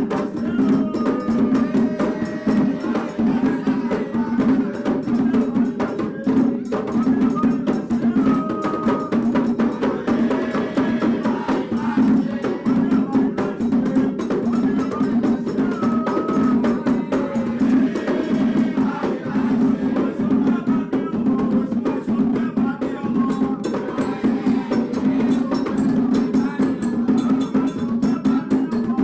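Candomblé percussion: atabaque hand drums played in fast, dense strokes with a metal agogô bell ringing over them, a toque for Oxum.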